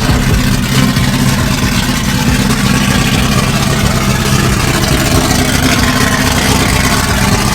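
A loud vehicle engine running steadily, with a constant low hum under heavy mechanical and exhaust noise.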